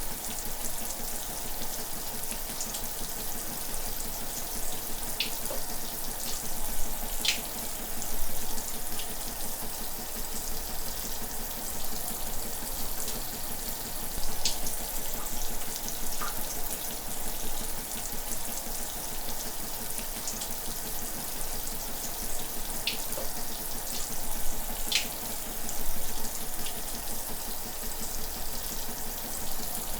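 Shower running steadily: water spraying and splattering, with occasional brighter splashes standing out from the hiss.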